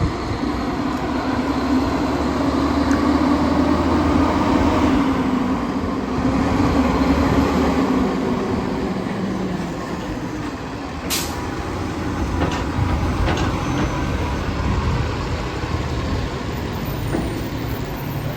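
Diesel engine of an Autocar Xpeditor garbage truck running loudly with steady tones, strongest for the first nine seconds or so, then easing. A short, sharp hiss comes about eleven seconds in.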